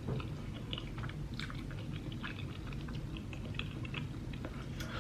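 Close-up chewing of tteokbokki, with many small, irregular wet mouth clicks and smacks over a low steady hum.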